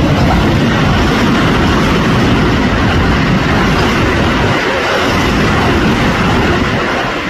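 Keio Line electric train running past at the station, a loud steady rush of rail noise that begins to ease near the end.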